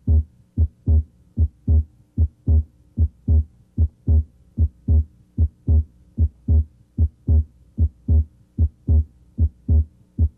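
Heart sounds at the left third intercostal space: a steady lub-dub, S1 and S2, each beat a pair of low thumps at about 75 beats a minute. Here both components of S2, A2 from aortic and P2 from pulmonic valve closure, may be heard during deep inspiration.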